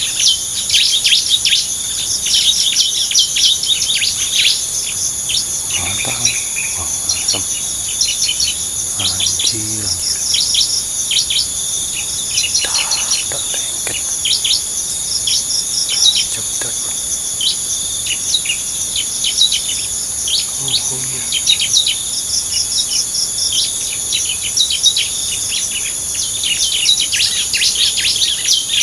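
Small birds chirping quickly and without a break, many short high notes crowding over one another, over a steady high insect drone.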